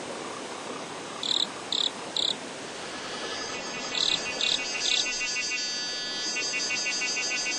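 Insect calls in forest: short high chirps in groups of three, then from about three seconds in a cicada chorus swells into a fast, pulsing buzz.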